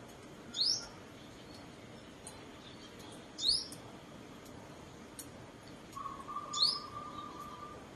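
Small bird calling: three sharp, high, upswept chirps about three seconds apart. A steady mid-pitched tone sounds during the last two seconds.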